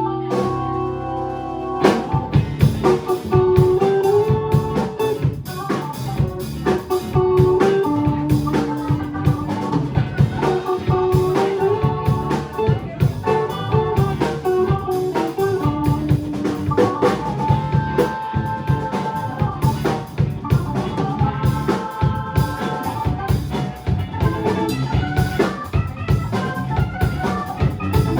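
A rock band playing live, with drum kit and electric guitar over held keyboard notes. The drums come in hard about two seconds in and keep a busy beat.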